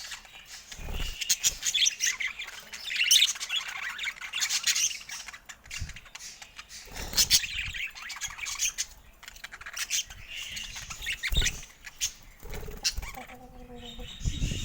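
Budgerigars chattering and chirping, a rapid run of warbles and squawks, with occasional clicks and soft thumps and a brief flutter of wings.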